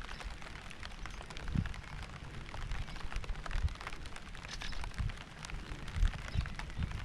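Rain falling steadily, with many separate drop hits and irregular low thumps underneath.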